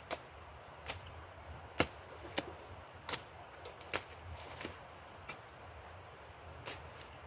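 A hand tool chopping: about nine or ten sharp strikes at an uneven pace of roughly one a second, the loudest near the two-second mark.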